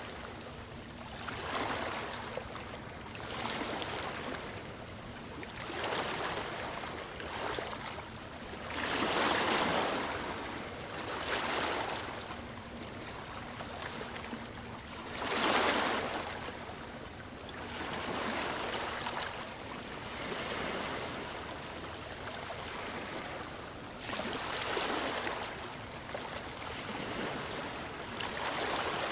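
Ocean waves washing onto a shore, a rushing hiss that swells and ebbs every two to three seconds, with two louder breakers partway through.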